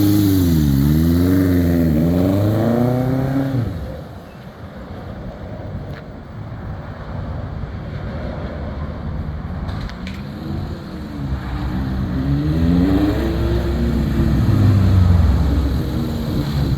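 Honda CB750 inline-four engine revving up and down as the motorcycle pulls away in gear, dropping off sharply about four seconds in as it moves away, then growing louder again from about ten seconds with rises and falls in revs as it comes back. The engine is still not fully warmed up after a cold start.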